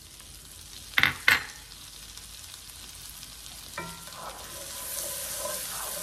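Butter frying with chopped green onions in a cast iron skillet, a steady sizzle. Two sharp knocks come about a second in, and a smaller knock near four seconds. After that a wooden spoon stirs the pan and the sizzle grows louder.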